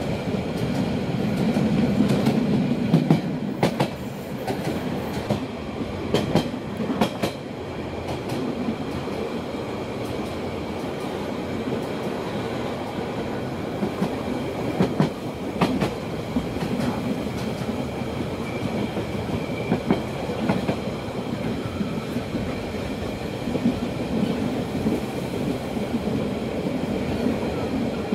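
Metre-gauge Rhaetian Railway train heard from an open carriage: the steady rumble of the running train, with short runs of wheel clacks over the rail joints, most of them in the first few seconds and around the middle.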